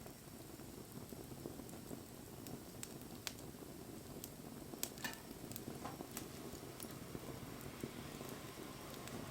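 Wood fire burning: a low steady rush of flames with scattered sharp crackles and pops, a cluster of louder pops about five seconds in.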